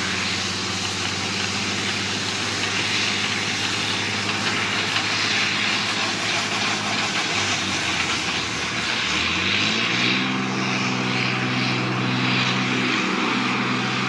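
A large vehicle engine drones steadily. About eight seconds in, its speed rises over a second or two and then holds at a higher, steady pitch.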